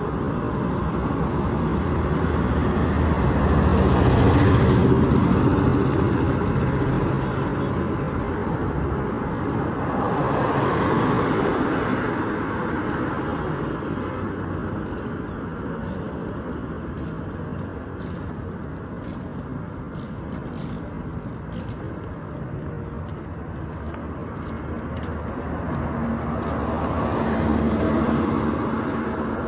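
Road traffic noise: motor vehicles running along a road, growing louder as they pass about four seconds in, again around eleven seconds, and near the end. A string of faint light ticks comes through in the middle.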